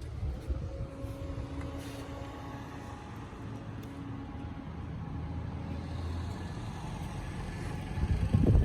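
Toyota Land Cruiser engine running steadily as a low rumble, growing slowly louder, with a sharp rise in loudness near the end.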